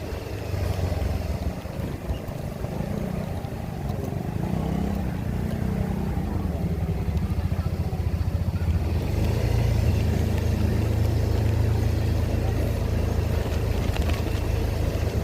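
Motor scooter being ridden along the road: a steady low engine and road rumble, growing a little louder about nine seconds in.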